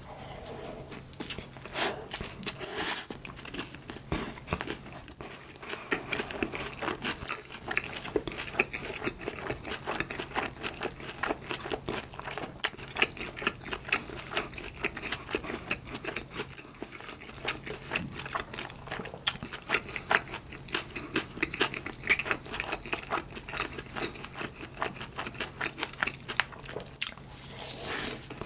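Mouth sounds of a person biting and chewing soft bread, a dense, continuous run of small clicks and smacks.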